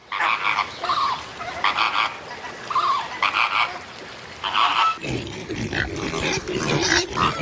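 Farm animal calls: a run of short, separate nasal calls, then about five seconds in an abrupt change to lower, denser grunting sounds.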